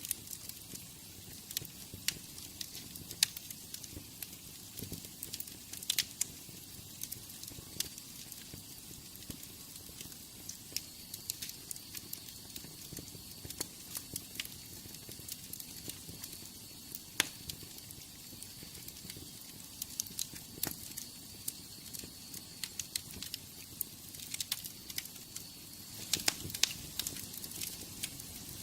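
Wood fire burning in a fireplace: a steady hiss of flames with frequent irregular crackles and sharp pops.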